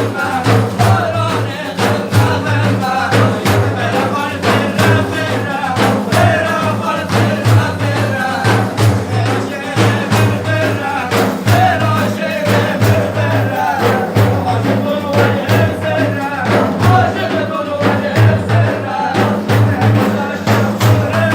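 Religious praise singing (madih): a voice carrying a wavering melody over a steady, continuous drum beat.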